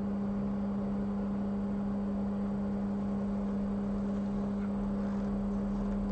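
A steady low hum on one even pitch, with faint light scraping about four to five seconds in.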